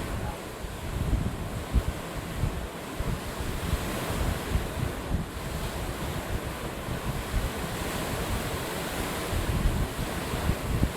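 Heavy rainstorm: a steady hiss of pouring rain, with gusting wind buffeting the microphone.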